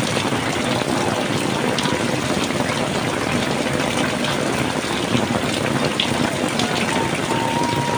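Heavy rain pouring down: a dense, steady hiss with scattered sharp drop hits.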